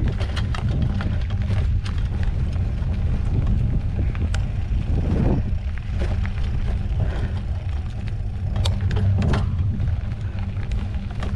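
Mountain bike riding over a dirt trail: a steady low rumble, with frequent small clicks and rattles.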